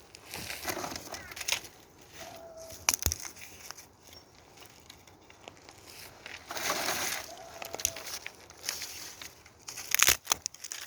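Dry twigs and kindling being crunched and rustled while a wood fire is laid, with sharp snaps about three seconds in and again near the end.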